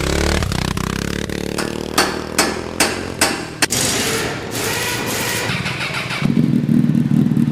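Motorcycle engine running, with a run of five sharp knocks about two to three and a half seconds in, then settling into a louder steady drone for the last second and a half.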